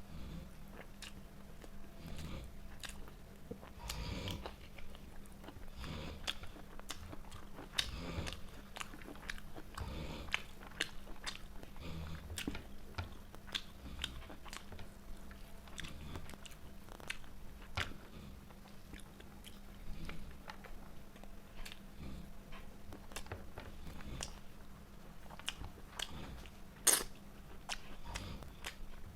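A person chewing and biting food close to the microphone: a steady stream of irregular mouth clicks and chewing sounds, with one sharper, louder click near the end. A faint steady low hum lies underneath.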